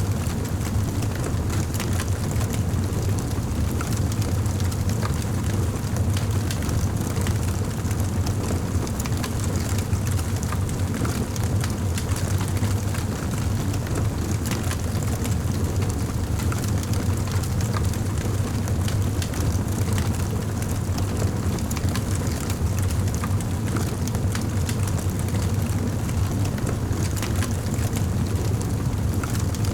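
Wood fire burning in a fireplace: a steady low rumble of the flames with many small, quick crackles and pops.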